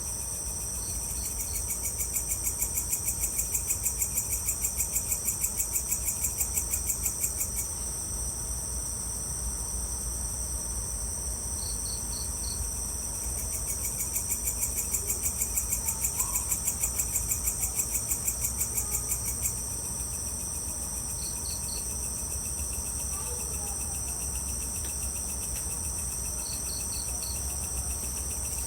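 Evening insect chorus: crickets trilling steadily at a high pitch, joined twice by a louder, fast pulsing insect call that lasts about six seconds each time. Short groups of three or four high chirps come about every ten seconds, over a low steady hum.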